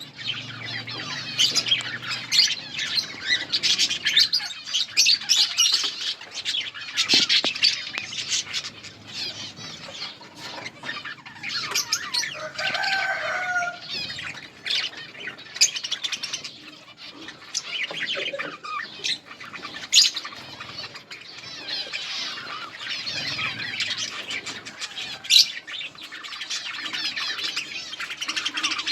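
A colony of budgerigars chirping and chattering continuously in a dense overlapping warble, with a few sharp, loud clicks standing out.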